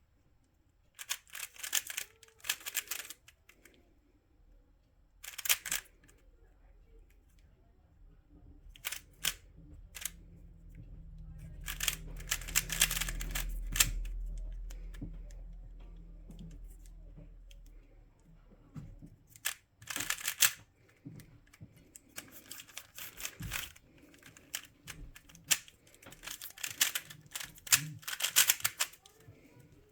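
Plastic twisty puzzle being turned by hand: bursts of rapid clicking and clacking layer turns, with short pauses between them. A low hum swells and fades in the middle.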